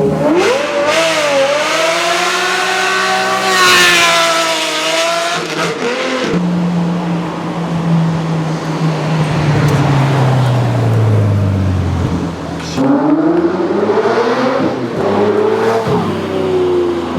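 Supercar engine accelerating hard: the revs climb quickly and stay high for about five seconds, then drop to a lower note that sinks steadily. About thirteen seconds in, the revs climb again.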